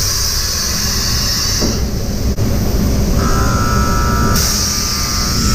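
Dump truck being loaded under an asphalt plant silo: a steady low rumble with loud hissing that stops and starts again. About three seconds in, a steady buzzing bell tone begins and holds for a few seconds: the plant's signal that the load is done.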